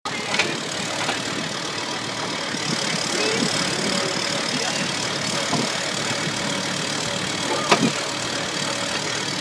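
Tractor engine running steadily through the ride, with a few brief knocks and faint voices now and then.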